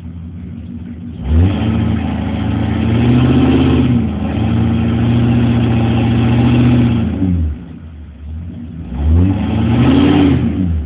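A 2003 Ford F-250 pickup's engine revving hard as the truck spins its wheels in mud. It revs up about a second in and stays high for several seconds with one brief dip, falls back to a lower drone, then revs up again near the end.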